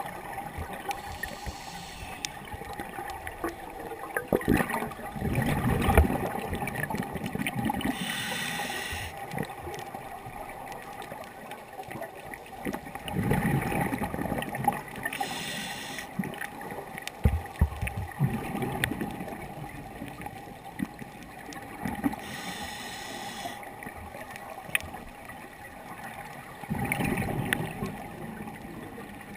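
Scuba diver breathing underwater through a regulator: a short hiss on each inhale alternates with a gurgling rush of exhaust bubbles on each exhale, about one breath every five to seven seconds. A faint steady tone lies underneath.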